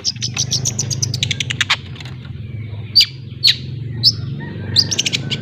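Young long-tailed shrike (cendet) practising its 'ngriwik' chatter: a fast run of sharp, high, downward-sliding notes, about ten a second for nearly two seconds, then single sharp calls every half second or so.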